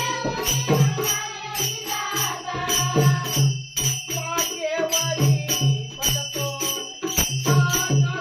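A man singing a Marathi gavlan, a devotional folk song, over a steady beat of jingling percussion.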